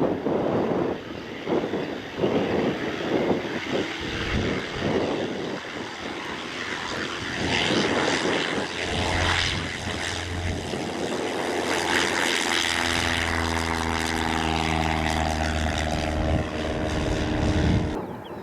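Propeller aircraft engine droning, loud and steady, its tones dropping in pitch partway through as it passes. The sound cuts off abruptly near the end. There is wind buffeting on the microphone in the first few seconds.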